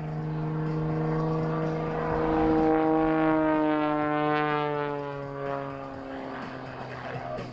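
Single-engine propeller aerobatic plane running under power as it flies past. Its engine and propeller tone swells and then falls slowly in pitch as it goes by.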